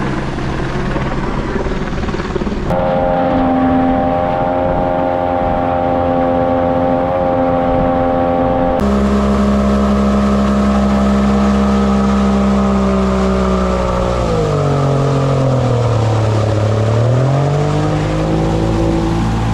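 Outboard jet-boat motor running at a steady speed, its note changing abruptly twice as the footage cuts between shots. Around fifteen seconds in, the engine note drops and climbs back up as the throttle is eased and reopened.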